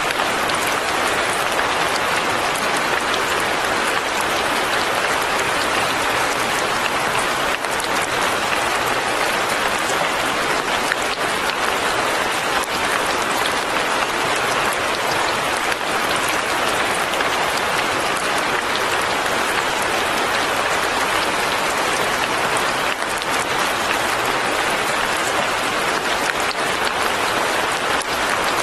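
Steady light rain falling on leaves and a cabin, a dense even patter of fine drops with no change in intensity.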